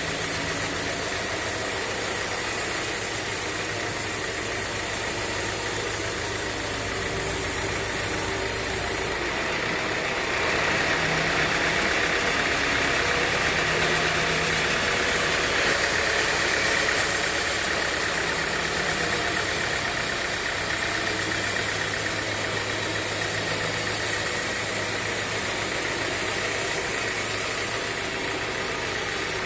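Band sawmill machinery running: a steady motor drone with a noisy hiss on top, growing louder and brighter for several seconds from about ten seconds in.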